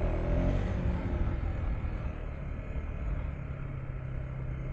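KTM 390 Enduro R single-cylinder dirt bike engine running under way, with wind rumble on the microphone. The engine note shifts in the first second, then holds steady.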